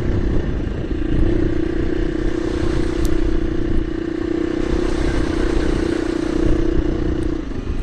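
KTM 350 EXC-F single-cylinder four-stroke dirt bike engine running at a steady throttle while riding along a lane, the engine note dipping briefly near the start and again near the end as the throttle is eased.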